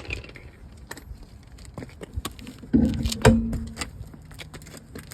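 Metal tools and parts clinking and knocking as they are handled, with a louder clank and a short metallic ring about three seconds in.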